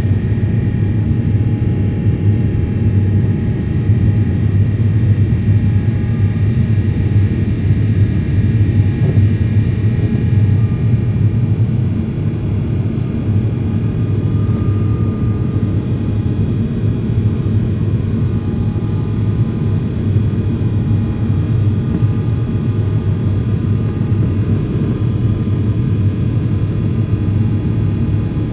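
Jet airliner's engines heard from inside the passenger cabin: a loud, steady rumble with a few faint steady tones above it, easing slightly about twelve seconds in.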